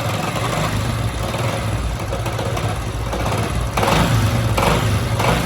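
Honda CD 70's single-cylinder four-stroke engine running with a strange noise from inside it, revved up about four seconds in. The noise sounds as though something is about to come loose out of the engine; another mechanic had put it down to the connecting rod.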